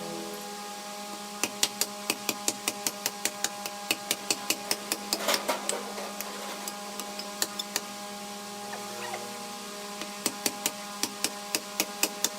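Repeated sharp knocks, in runs of about two to four a second with short pauses, over a steady machine hum.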